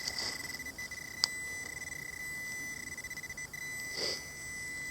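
Handheld metal-detecting pinpointer sounding a steady high tone as it is held on a buried metal target in the dig hole. There is a sharp click about a second in and a short scuff near the end.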